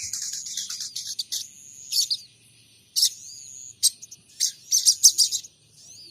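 A sogon trotol songbird singing bursts of high, rapid chirps and trills with short pauses between phrases, in song material copied from munias and house sparrows.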